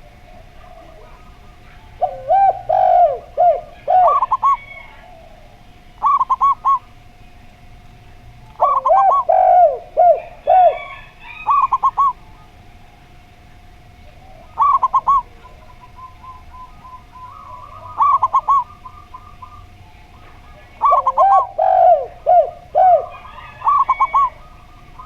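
Zebra dove (perkutut) and derkuku dove cooing in repeated bouts, a run of quick rhythmic coos every few seconds, some lower and some higher in pitch. A faint steady tone sits under the calls.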